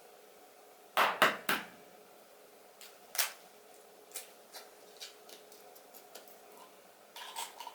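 Close handling sounds: a quick run of three sharp clicks or knocks about a second in, another a couple of seconds later, then a few softer taps.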